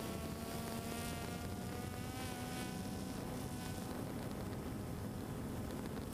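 Multirotor drone's motors and propellers buzzing with a steady whine whose pitch wavers slightly, over a constant rushing noise.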